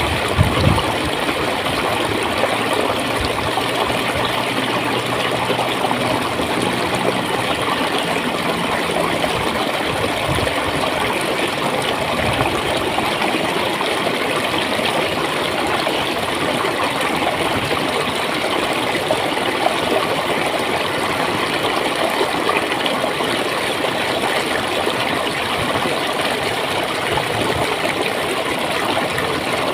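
A stream of clear water flowing and gurgling steadily.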